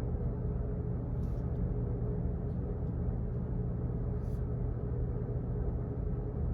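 Steady low office background hum with a constant drone, and a few faint scattered ticks and clicks over it. The two clearest fall about a second in and just after four seconds.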